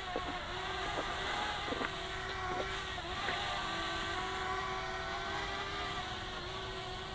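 Parrot Bebop quadcopter's four propellers whirring in a steady, multi-toned hum while it hovers, the pitch wavering slightly as the motors adjust.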